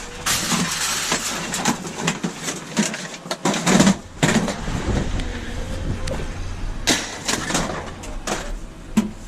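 Scrap metal being shifted and pulled about in the back of a van: irregular clanks, knocks and scraping, with a few sharper bangs, loudest near the middle and near the end, over a low rumble through the middle.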